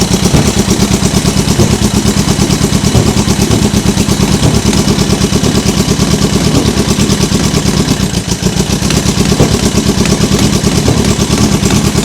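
Yamaha XJ750's inline-four engine running through a custom-built exhaust on its first start, choke on. It runs unevenly and is 'not sounding very well', with a brief dip in level about eight seconds in.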